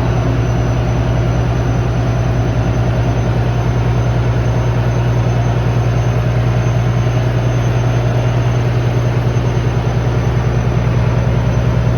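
A ship's diesel engine running steadily, with a deep hum and a fast, even pulse.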